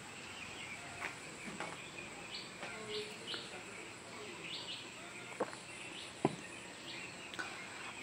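Quiet outdoor background with a few short, high bird chirps, mostly in the first half, and two sharp clicks a little after the middle.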